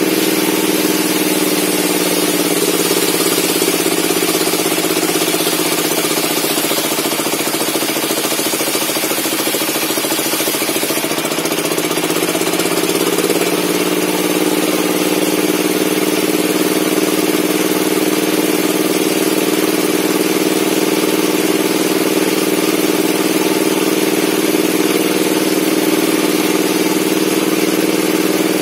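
Circular table saw running steadily. A few seconds in, its pitch sags under load with a high hiss of cutting as the blade works through a log. Around eleven seconds in the hiss stops and the saw climbs back to full speed, then runs on freely.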